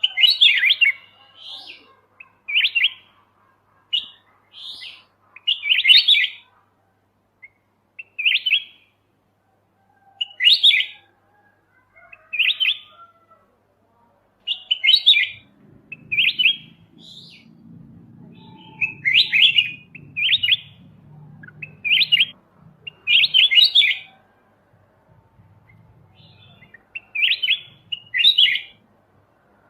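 Kutilang emas mata putih, a bulbul, singing short chirpy phrases, one every second or two. A faint low hum runs under the song through the middle and latter part.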